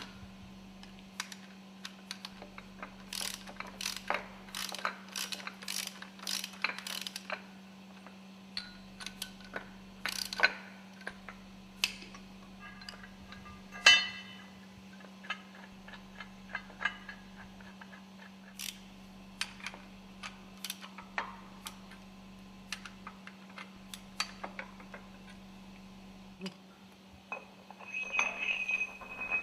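Hand tools clicking and clanking on steel while the tilting tool is bolted to the cylinder cover's stud holes, including a quick run of ratchet-like clicks, over a steady low hum.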